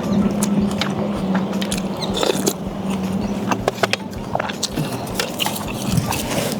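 Eating sounds: biting and chewing of grilled pork belly, with many short sharp clicks, over a steady hiss and a low hum.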